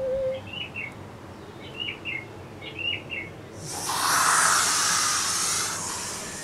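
Small birds chirping in short repeated phrases, then a loud rushing hiss that swells in about halfway through and lasts about three seconds.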